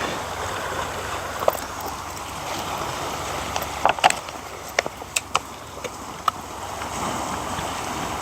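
Steady rushing noise with a handful of sharp knocks and clacks, most of them bunched about four to six seconds in.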